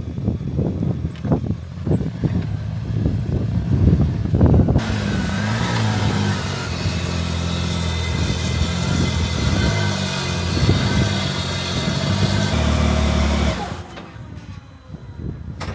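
Truck engine running steadily, with knocks and thumps on the microphone in the first few seconds; the sound becomes fuller and hissier from about five seconds in and drops away shortly before the end.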